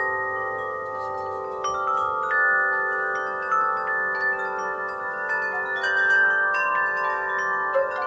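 Metal wind chimes ringing in the breeze: frequent light strikes setting off many long, overlapping ringing tones, busier from about two seconds in.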